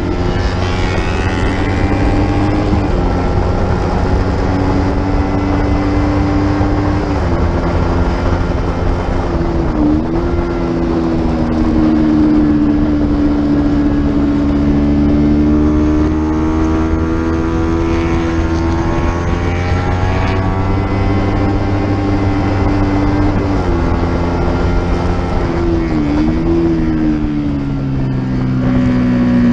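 Racing motorcycle engine at high revs on track, steady most of the time with several sudden dips and changes in pitch as the rider works the throttle and gears, over a constant rush of wind.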